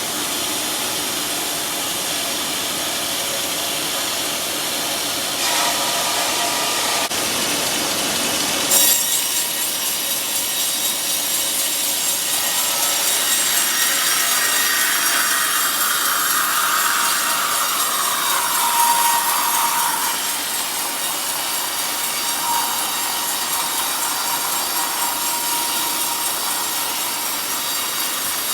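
Sawmill blade cutting through a teak log: a steady rasping run of the cut that turns brighter about nine seconds in, with a whine in the middle that falls in pitch.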